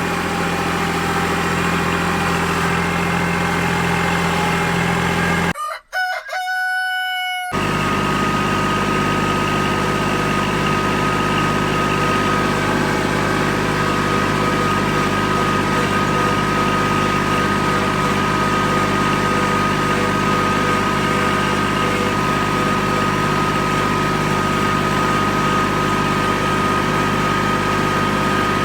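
Tractor engine running steadily. About six seconds in, the engine drops out for roughly two seconds and a rooster crows.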